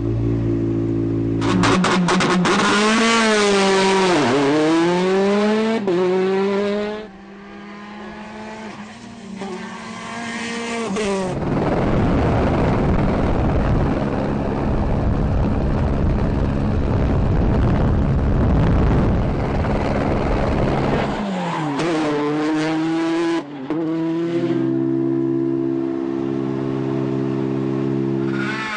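Rally cars' engines revving hard, the pitch sweeping up and down through gear changes, with stretches of steady engine drone. A long stretch of loud rushing noise runs through the middle.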